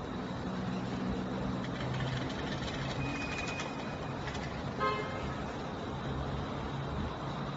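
Road traffic noise with a car horn sounding briefly, just under five seconds in.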